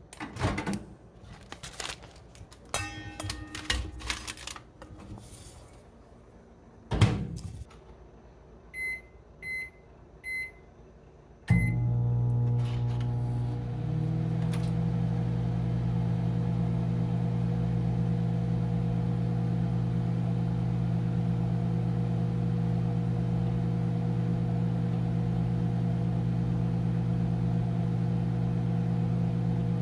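Handling knocks and rustles, a thunk, then three short keypad beeps as a Commercial Chef 1.1 cu ft countertop microwave is set; about a second and a half later the microwave starts running with a loud, steady hum, cooking a bag of popcorn.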